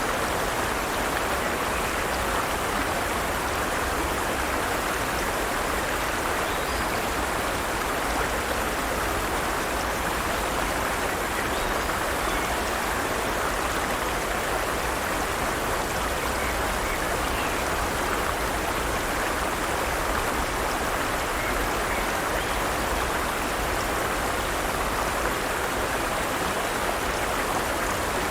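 Forest stream running over rocks: a steady rush of flowing water with no change in level.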